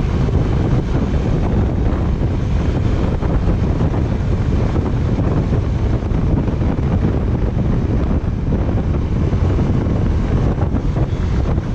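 Steady wind buffeting the microphone over the running noise of a moving vehicle on the road.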